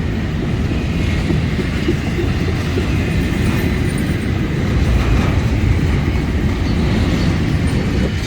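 Freight cars of a Florida East Coast Railway train rolling past, a steady rumble of steel wheels on the rails as the train slows down.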